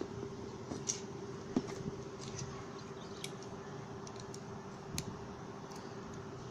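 A few scattered small, sharp clicks over a steady hum and background hiss.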